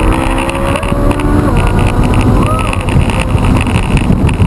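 Ferrari 458 Italia's 4.5-litre V8 pulling hard under acceleration, heard from inside the cabin: the engine note climbs for about a second, then breaks off and carries on lower, over a heavy rumble of road and wind noise.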